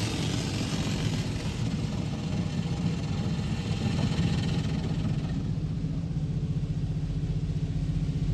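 A machine running with a steady low hum, under a hissing rush that fades away about five seconds in.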